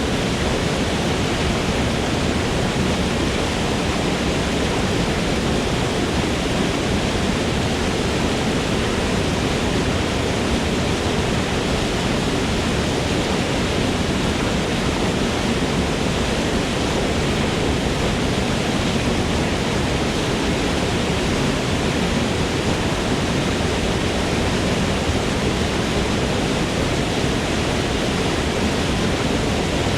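Forest waterfall, water falling and splashing in a steady, even rush.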